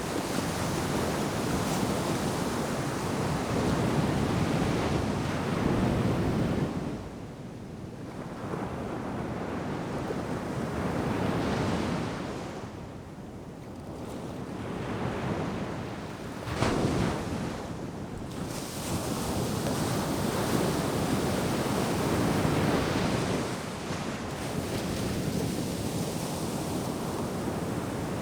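Ocean surf breaking on a beach, with waves rolling in and washing back in slow swells and lulls. One sharper, louder wave crash comes a little past halfway.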